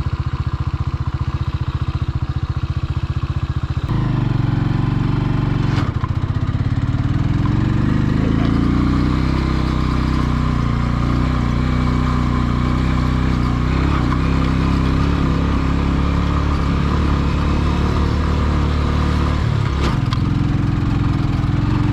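Motorcycle engine running at a steady low note, then opening up about four seconds in, its pitch climbing as the bike gathers speed and then holding steady, with a brief dip near the end.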